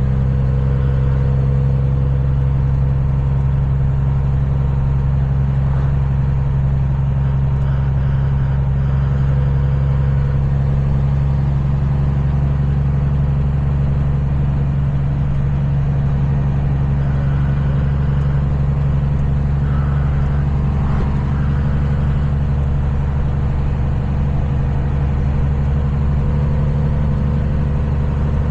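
Kenworth semi-truck's diesel engine running at a steady cruise, a constant low drone with road noise, the level holding even throughout.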